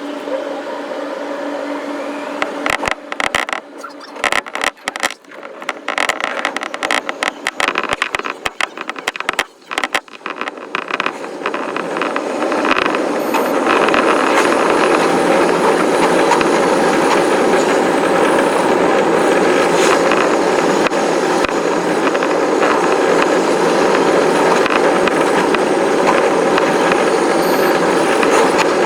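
Electric commuter train running on the line, heard from on board. It starts choppy, with many brief drop-outs, and about halfway through it settles into a loud, steady running noise.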